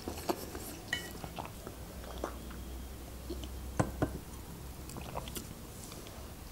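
Close-miked chewing of a mouthful of noodles: quiet, scattered wet mouth clicks and smacks over a low steady hum, with one sharper click just past the middle.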